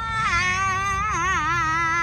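A child's high-pitched voice held in one long, wavering wail, dropping in pitch about a quarter second in.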